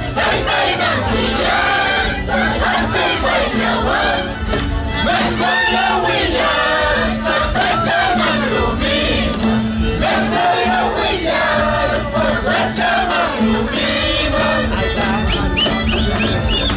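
A crowd of many voices singing and shouting together over music, with a steady low tone held underneath.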